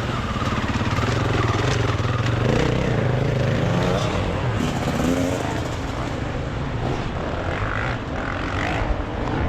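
Off-road enduro motorcycle engines revving up and down continuously as they ride the forest course, the pitch rising and falling with the throttle.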